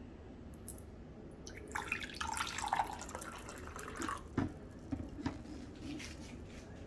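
Water from a tap running briefly into a sink with some splashing, then several light knocks.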